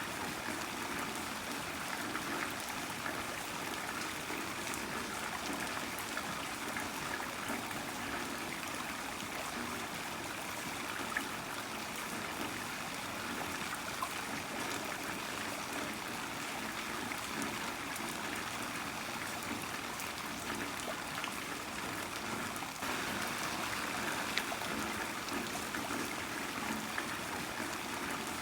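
Heavy rain falling steadily, a dense patter of drops with water running and trickling; it gets slightly louder about 23 seconds in.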